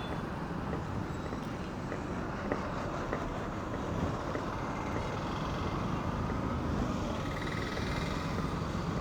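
Steady road traffic noise: a low, even rumble of passing vehicles, with no distinct events.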